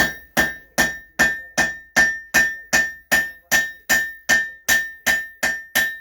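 Hand hammer striking a rivet on the anvil at a steady pace, about two and a half blows a second, each blow ringing: peening over the rivet that joins the two halves of a pair of forged tongs.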